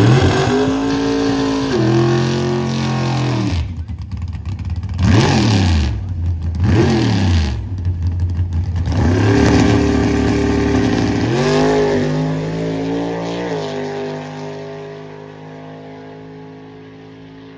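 Drag car engine revving hard at the starting line while its rear tyres smoke in a burnout, then launching and accelerating down the strip, its pitch climbing and dropping back at two gear shifts before it fades into the distance.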